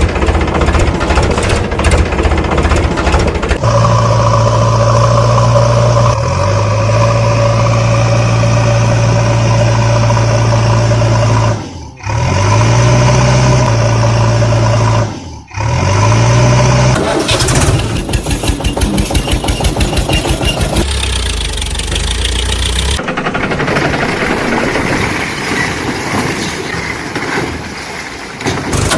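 Diesel engine of a JCB 3DX backhoe loader running under work, its pitch rising briefly after two short breaks about twelve and fifteen seconds in.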